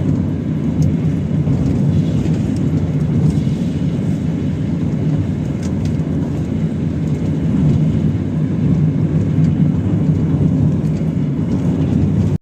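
Steady low road-and-engine rumble of a vehicle driving along a highway.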